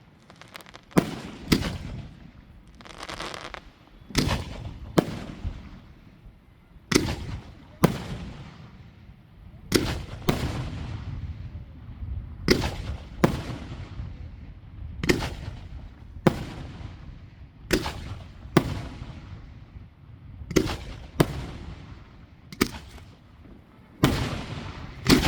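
Aerial fireworks shells bursting in a steady barrage, a sharp bang every second or so, each followed by a fading echoing rumble, with a spell of crackle about three seconds in.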